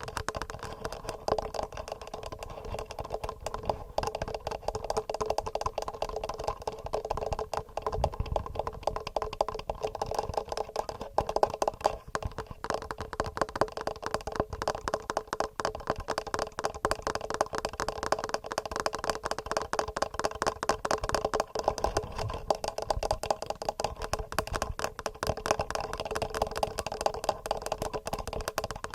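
Fast, regular fingernail tapping on the microphones of a TASCAM portable recorder: a dense, unbroken patter of small clicks.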